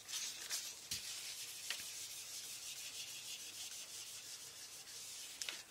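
Steady scratchy rubbing of writing strokes on a surface, with a few light ticks.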